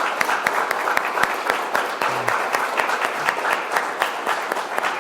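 Congregation applauding steadily in a chapel.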